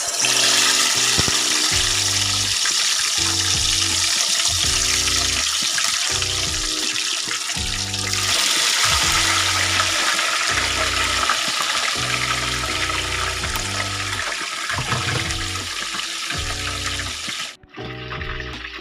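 Water running steadily from a tap, over soft rhythmic background music; the water sound stops abruptly near the end.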